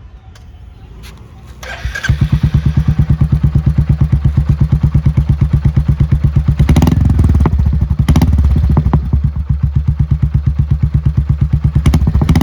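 Royal Enfield Meteor 350's single-cylinder engine, breathing through an aftermarket Globe Dolphin premium silencer with the stock catalytic converter kept, starts about two seconds in and settles into a steady, loud thumping idle, with a short swell in the middle.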